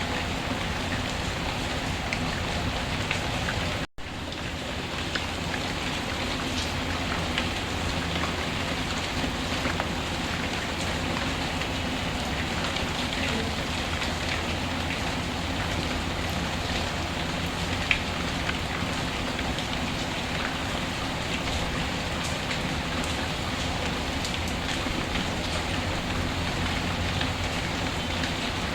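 Steady rainfall with a wood fire crackling, scattered small pops over the rain's even hiss. About four seconds in, the sound cuts out for a split second, then resumes.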